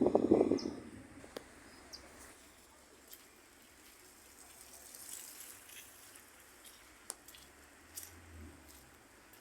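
Birds chirping faintly outdoors, with a short louder sound in the first second and a few faint clicks afterwards.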